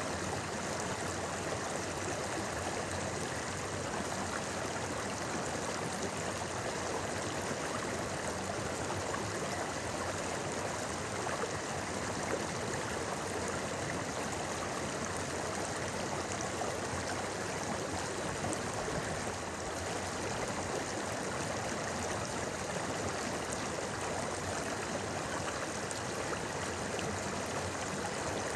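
A shallow river babbling, a steady, even rush of running water.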